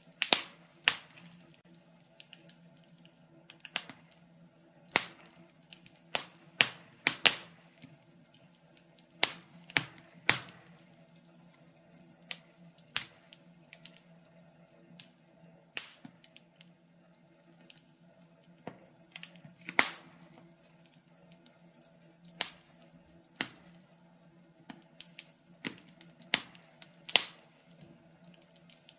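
Wood fire crackling in a fireplace: irregular sharp pops and snaps, usually one to two seconds apart, over a faint steady low hum.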